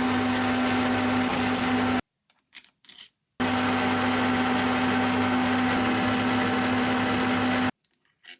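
An electric power tool running at a steady speed with a steady hum, in two stretches that each start and stop abruptly, with a few light clicks in the gap between them.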